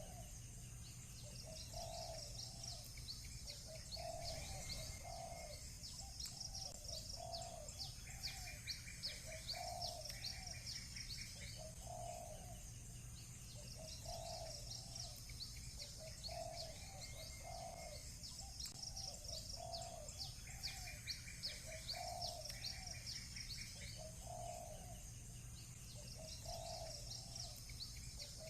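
Doves cooing, a short coo repeated about every two seconds, while small birds chirp and trill at a higher pitch throughout.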